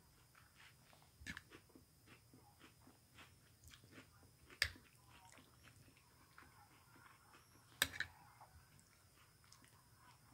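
Faint, close-miked chewing and mouth sounds of someone eating beef stroganoff with egg noodles and raw sliced onion, broken by two sharp clicks, one near the middle and one about three seconds later.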